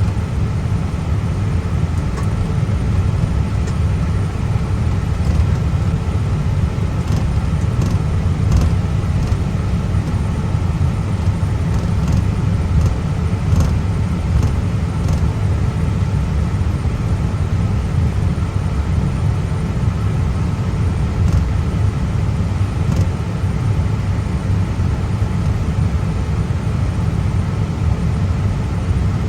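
Airbus A320 flight deck noise while taxiing: a steady low rumble with a faint hum above it and a few faint ticks.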